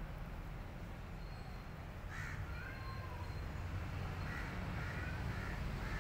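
Faint bird calls in the background, one about two seconds in and a few more later on, over a steady low outdoor rumble.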